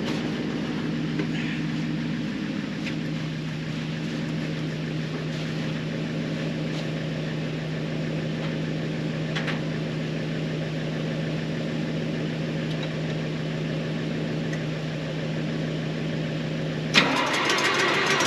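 A spark-ignition tractor engine being cranked by its starter, a steady drone for about 17 seconds without running on its own; it is struggling to start, with a fuel or choke problem suspected. Near the end the sound suddenly turns louder and rougher, with a fast even rattle.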